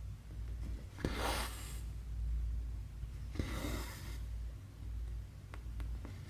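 A needle and embroidery thread pulled through cross-stitch fabric twice. Each pull is a short rasping swish that begins with a tap as the needle goes through. A few light needle ticks come near the end, over a steady low hum.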